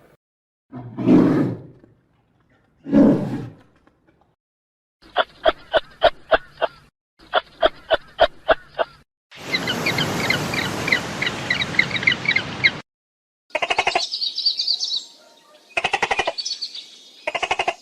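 A string of different animal calls cut one after another: two loud, low calls, then two runs of rapid, evenly repeated calls, then a dense stretch of bird chirping, then short, high calls near the end.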